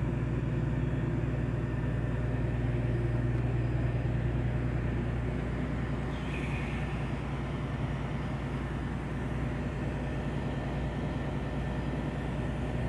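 A moored ship's machinery running with a steady low hum and throb.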